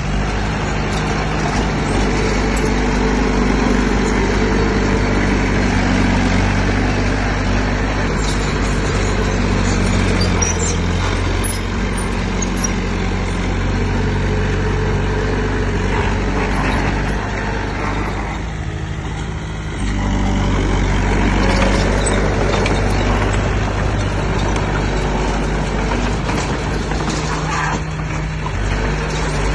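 Heavy diesel engine of earth-moving machinery running steadily under load. It eases off briefly about two-thirds of the way in, then picks up again.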